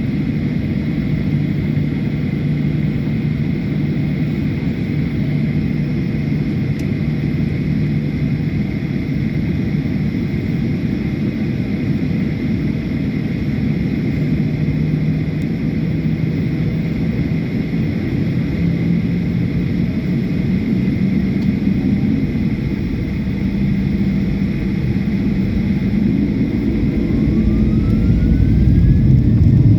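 Boeing 737-800's CFM56-7B jet engines running: a steady rumble with a hum that slowly climbs in pitch through the second half, and a rising whine and louder rumble near the end.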